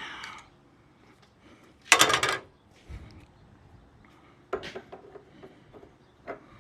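Handling noises from work on a fuel-line fitting: a loud clatter about two seconds in, then a few lighter clicks and knocks.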